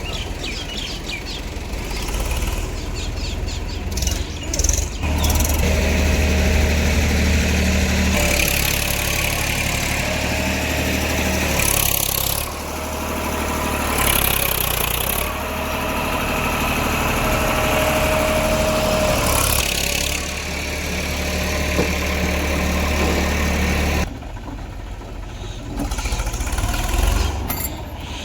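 Heavy diesel engine working under load, its revs rising and falling, with a thin whine coming and going over it; the sound drops abruptly near the end.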